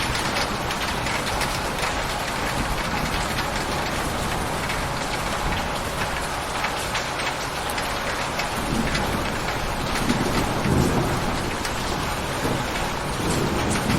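Steady heavy rain hitting a surface, a dense hiss of drops. A low rumble of thunder swells up about two-thirds of the way in and again near the end.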